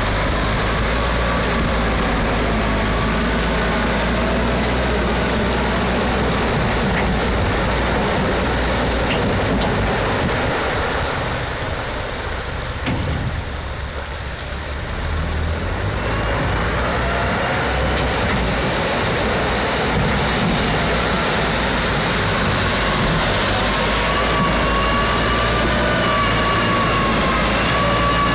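Tractor engine running hard under load in mud, its pitch slowly rising and falling. It eases off for a few seconds about halfway through, then picks up again.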